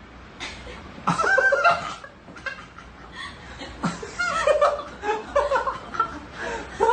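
A person laughing in several bursts, at about one, four and six and a half seconds in, with quieter chuckling between.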